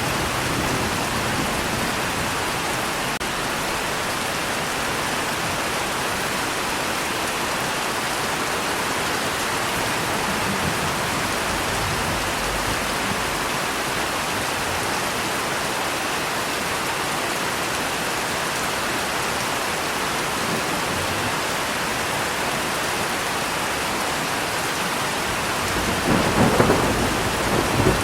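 Steady rain falling, with a brief rumble of thunder swelling up near the end.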